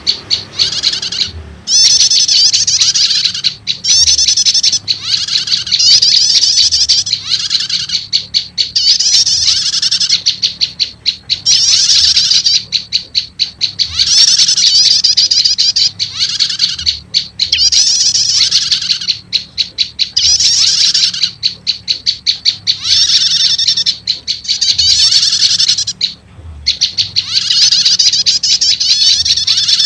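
Prenjak lumut (olive-backed tailorbird) calls played as a bird-lure track to draw in wild birds: loud, high, rapidly repeated chirping notes in phrases a second or two long with brief gaps between them.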